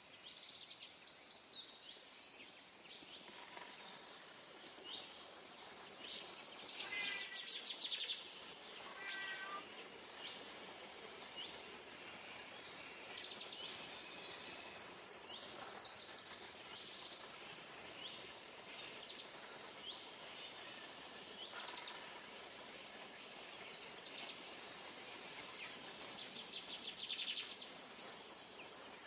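Birds calling and trilling over a steady background hiss, with many short chirps and rapid trills throughout and a few louder calls around seven to nine seconds in.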